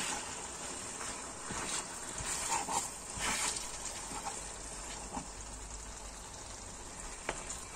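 Egg sauce of egg, onion, tomato and pepper sizzling steadily as it fries in oil in a pan. A spatula stirs it, with a few short louder scrapes and swishes in the first half.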